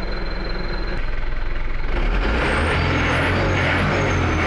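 Truck engine fitted with an HKS aftermarket exhaust, running steadily, then revved up and held higher about two seconds in. From then on the exhaust gets louder and a hissing whoosh joins the low engine note, the 'souss' the exhaust gives above about 2000 rpm.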